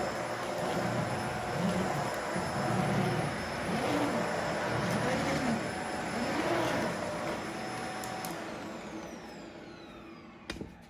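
Upright vacuum cleaner running over rugs, its tone swelling and easing with the strokes. About eight seconds in it is switched off and the motor winds down with a falling whine, followed by a click near the end.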